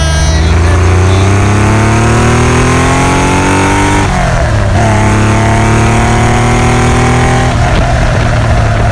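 Porsche 911 SC's air-cooled flat-six accelerating hard, its note climbing for about four seconds. A short break and drop in pitch follows as it shifts up, then it climbs again more slowly before settling to a steadier rumble near the end.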